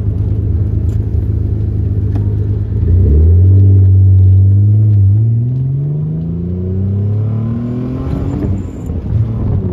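Nissan 300ZX three-litre non-turbo V6 running at a steady cruise, then pulling hard from about three seconds in, its revs climbing. Near five seconds there is a short dip as the five-speed is shifted up, then the revs climb again until the throttle eases near the end.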